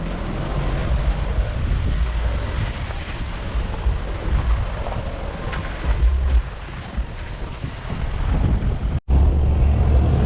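Wind buffeting the microphone: a gusty low rumble with hiss. The sound drops out for an instant about nine seconds in, then returns louder.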